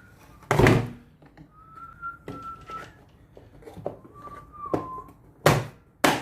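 A person whistling a few soft, held notes while working, with sharp knocks of tools or parts being handled, the loudest about half a second in and twice near the end.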